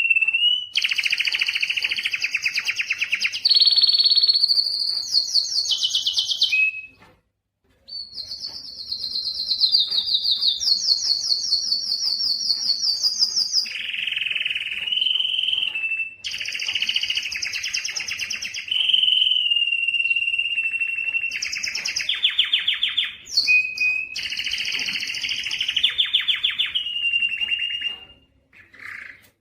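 Male domestic canary singing a long, unbroken song of rapid trills, each phrase held at one pitch before jumping to another, with a short pause about seven seconds in.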